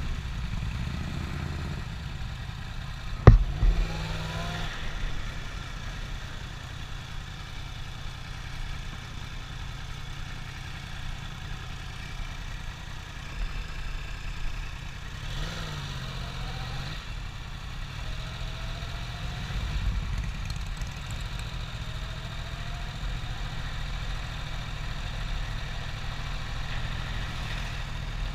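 A vehicle engine idling steadily, with one sharp knock about three seconds in.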